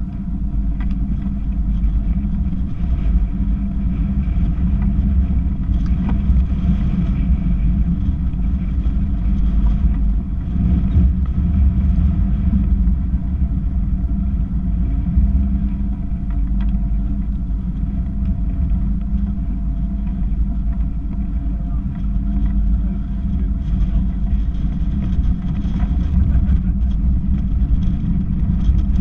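Boat engine running steadily: a constant low rumble with a steady drone above it.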